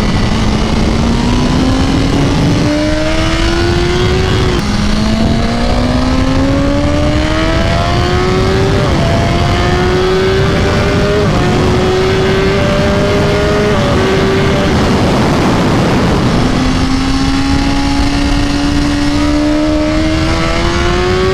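BMW S1000RR's 999 cc inline-four engine pulling hard through the gears on track, its pitch climbing and dropping back at each upshift four times in quick succession. The engine eases off for a couple of seconds, then climbs again through another gear near the end.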